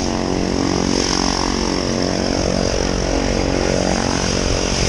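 Propeller engine of a skydiving jump plane running steadily, heard from inside the aircraft: a loud, even drone with a pitched hum.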